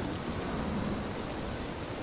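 Heavy rain falling steadily: an even hiss with a few faint drop ticks.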